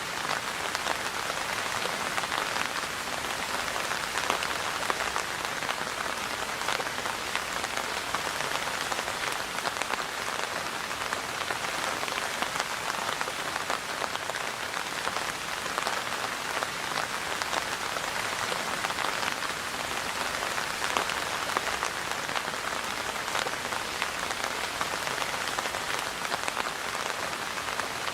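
Steady rain falling on a surface, a dense even patter with many small drop ticks.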